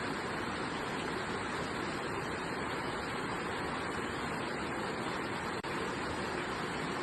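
Steady rain falling, an even hiss of rain noise, with a split-second dropout about five and a half seconds in.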